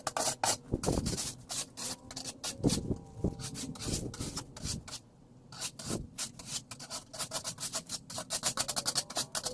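Rapid crackling crunch and scrape of snow being worked, with a few heavier thumps and a short lull about halfway through.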